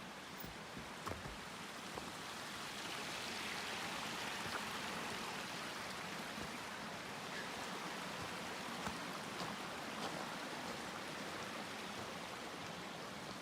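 Stream water rushing steadily at high spring flow, swelling a little about three seconds in, with a few faint ticks.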